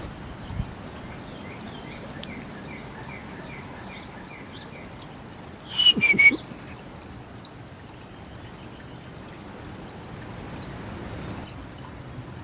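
Backyard birds chirping and calling over steady outdoor background noise. A run of evenly spaced short notes comes in the first few seconds, and a louder two-note call, its second note lower, about six seconds in.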